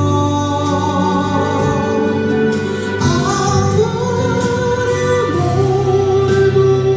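Male singer performing a slow ballad live over instrumental accompaniment, ending on one long held note.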